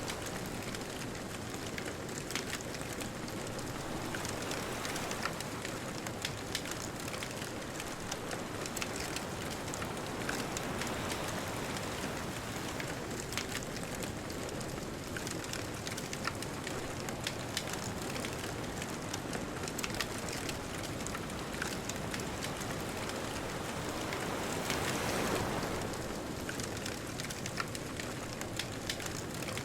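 Bonfire crackling with frequent sharp pops and snaps over a steady wash of distant ocean surf. A wave swells louder about 25 seconds in.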